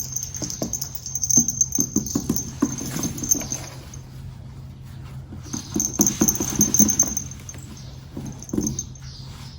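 Light rustling, scratching and tapping in irregular runs, typical of a cat pawing at a cat teaser wand in a cardboard box, over a steady low hum.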